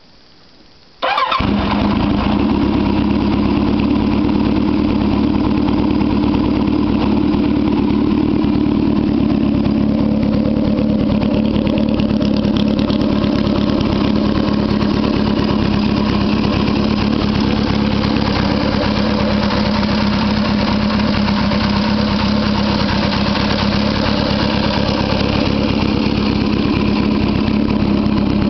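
Motorcycle engine idling loud and steady through an NGC Strega aftermarket muffler with its silencer baffle removed. The sound comes in suddenly about a second in and holds at one even pitch.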